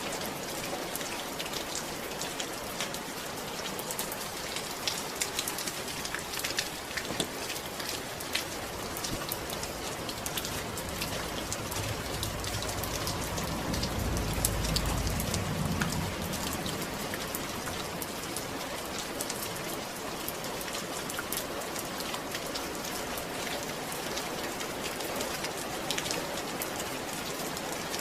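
Steady rain falling, a dense patter of many small drops. A low rumble swells and fades about halfway through.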